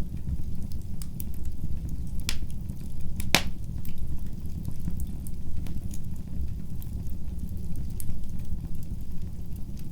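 Wood fire burning in a fireplace: a steady low rumble of flames with scattered sharp crackles and pops, the loudest pops about two and three and a half seconds in.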